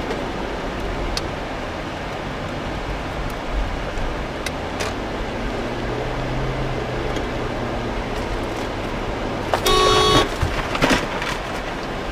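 Steady road noise of a car driving, then a car horn honks for about half a second near the end, followed by a shorter second toot.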